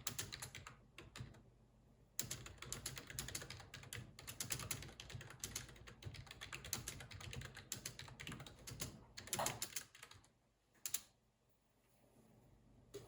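Fast typing on a computer keyboard, a dense run of key clicks with a brief pause a second in, then a louder clatter about nine seconds in. The typing stops, and a single click follows about eleven seconds in.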